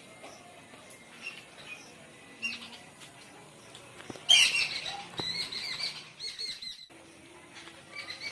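Birds chirping and squawking: a few single high chirps, then a loud bout of rapid chirps about four seconds in that lasts around two and a half seconds and stops abruptly, with a few more chirps near the end.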